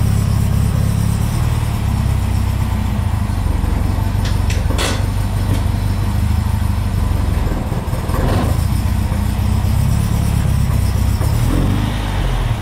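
Opel Kadett C coupe's engine idling steadily, heard from low beside the rear wheel and exhaust. A few brief clicks about four to five seconds in.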